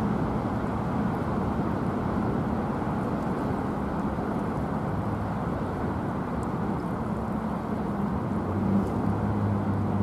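Freight train wagons rolling past on the rails with a steady rumble, and a faint low hum joining in toward the end.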